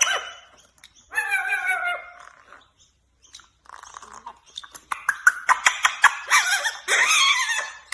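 Pet parrot vocalizing: a warbling call about a second in, then a run of squawks and sharp clicks through the second half.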